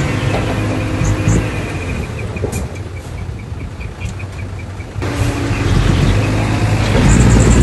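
Heavy diesel engine of earthmoving machinery running with a low drone. A regular light ticking comes through during a quieter stretch, and the engine sound jumps louder about five seconds in.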